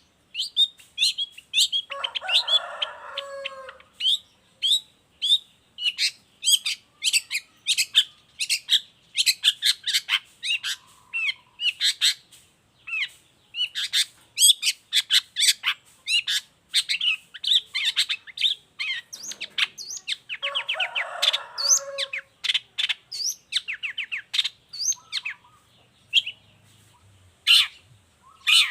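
Long-tailed shrike (cendet) in full song: a fast, unbroken run of sharp, high chirps and whistled notes. Twice, about two seconds in and again about twenty seconds in, it breaks into a harsh, lower, rasping chatter.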